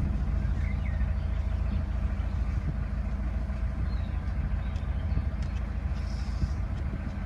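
Narrowboat engine running steadily while cruising: an even, low rumble.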